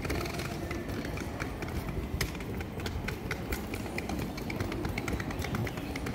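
Footsteps on a hard floor with scattered sharp clicks, over a steady low rumble.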